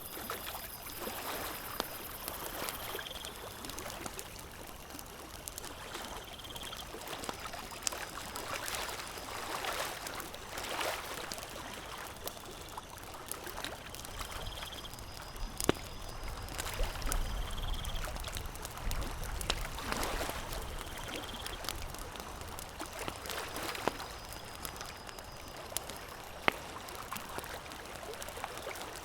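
Campfire crackling with a few sharp pops, over a steady wash of lapping water. A short high chirp repeats every few seconds.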